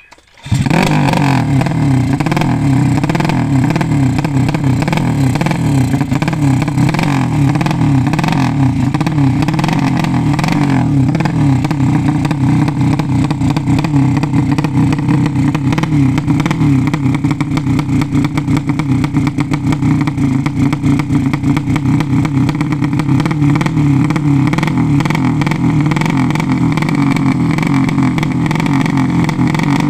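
200 cc racing motorcycle engine starting up suddenly about half a second in, then running loud and steady while its carburettor setting is checked.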